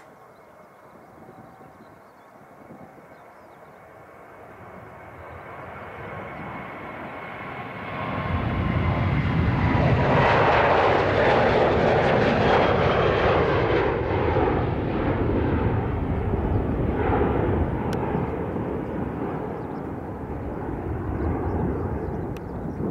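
Boeing 737-900 jet engines at takeoff power. The noise builds, then is loud from about eight seconds in as the jet goes past, and the engine whine drops in pitch as it passes. A heavy rumble follows that eases off only slowly.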